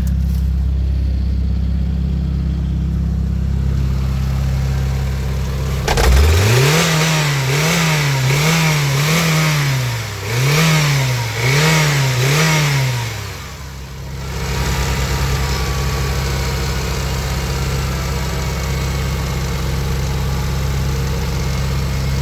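2007 Honda Civic inline-four engine idling, then blipped through a quick series of revs about six seconds in, each rising and falling in pitch, before dropping back to a steady idle.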